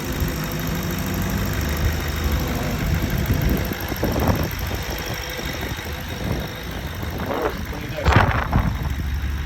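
2011 Audi S5 engine idling steadily, a minute or so after a cold start. A few short rustling or handling noises come through, the loudest about eight seconds in.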